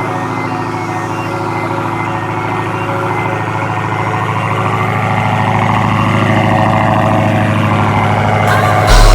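Vehicle engine running steadily, its sound slowly growing louder, with a heavy low rumble coming in near the end.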